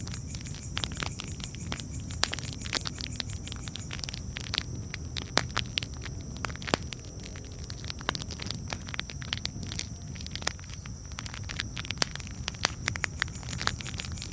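Wood campfire crackling, with frequent irregular sharp snaps and pops over a steady low rumble.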